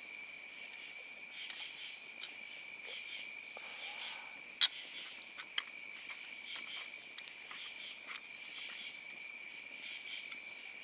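Night crickets chirping: a steady high trill under repeated pulsed chirps. A few sharp clicks stand out, the loudest about four and a half and five and a half seconds in.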